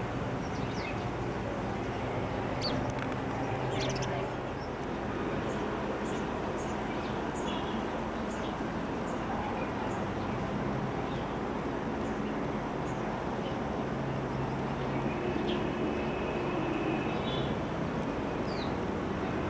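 Birds chirping in short, scattered calls over a steady background rumble of outdoor noise.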